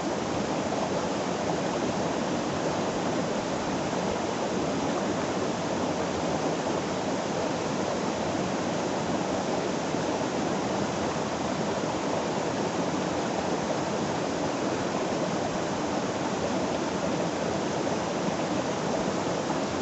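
A river rushing steadily over rocks, a constant, even flow of water.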